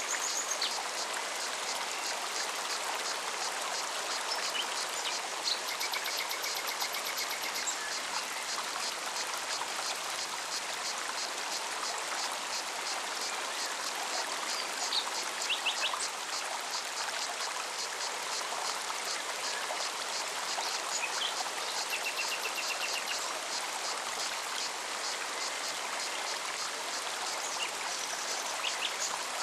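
Forest mountain stream running steadily, with a cicada's fast, even pulsing buzz behind it. A few short bird trills and chirps come through, one about a quarter of the way in and another about three-quarters through.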